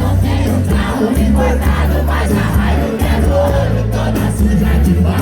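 Live sertanejo band music with heavy bass, and a crowd singing along loudly.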